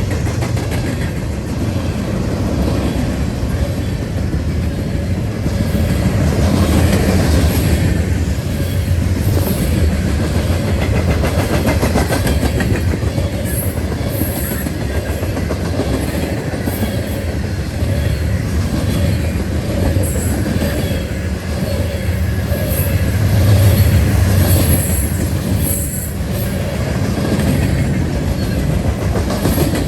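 A train rolling past close by: a steady rumble of steel wheels on rail, with brief high wheel squeals now and then.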